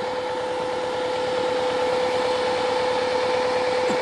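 Arctic Cat diesel quad's engine running at a steady speed, with a steady high whine held at one pitch over the rapid firing pulses, slowly growing a little louder.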